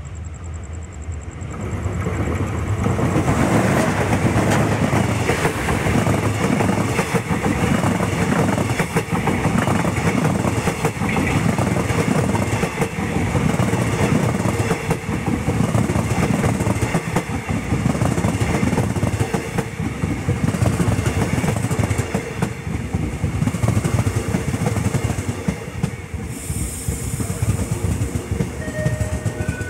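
Passenger train passing at close range, hauled by a Hitachi HID diesel-electric locomotive. The sound swells about two seconds in as the locomotive arrives, then the long string of coaches rolls by with a rapid clickety-clack of wheels over the rail joints.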